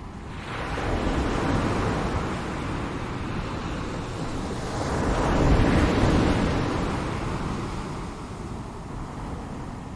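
Ocean surf: waves washing in with a rush that swells about a second in, builds to a peak a little past the middle, then ebbs away.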